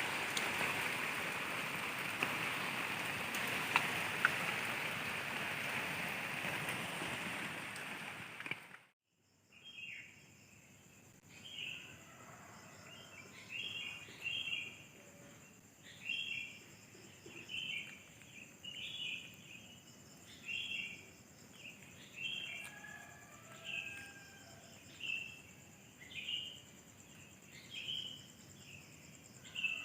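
Heavy rain falling steadily, with a few sharp drop clicks, that cuts off abruptly about nine seconds in. Then a quiet night ambience follows: insects with a steady high trill, and a chirping call repeated roughly once a second.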